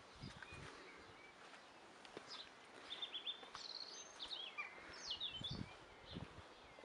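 Small garden birds chirping and singing, faint: a quick run of high notes about three seconds in, then several falling calls, over quiet outdoor background noise. A few faint low knocks come and go.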